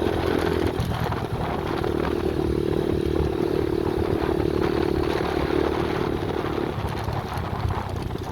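Small pit bike engine running steadily under riding throttle. The engine note drops about seven seconds in as the throttle eases off.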